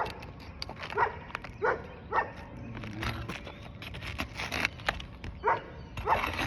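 A dog barking in short, sharp barks, about one or two a second with a pause in the middle, over light clicks.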